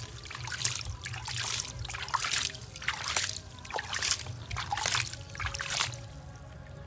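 Water splashing and trickling in a series of short splashes, roughly one or two a second, that stop about six seconds in.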